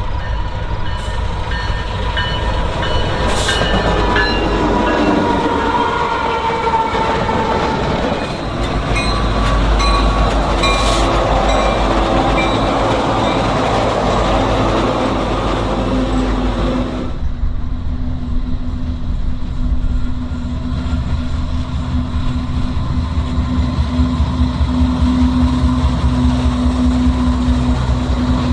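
Union Pacific freight train running by: rolling freight cars and diesel locomotive engines. About 17 seconds in the sound changes suddenly to a steady, low engine hum over a rumble.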